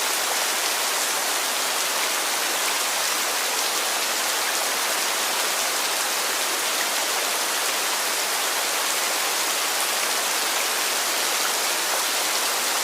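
Heavy rain falling steadily, a dense even hiss of countless drops with faint scattered patters.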